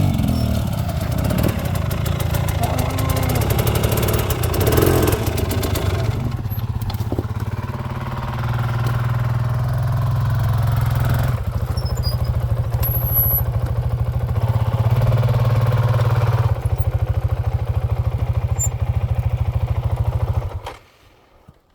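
Dirt bike engine running steadily at low to moderate revs, with small shifts in pitch as the throttle changes. It cuts off suddenly near the end.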